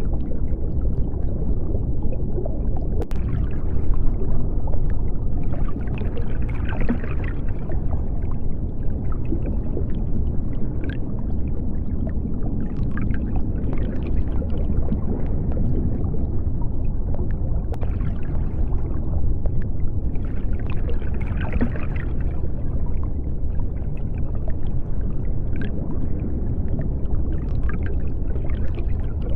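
Underwater sea ambience: a steady deep rumble with bubbling, gurgling water noise that swells up twice, plus scattered faint clicks.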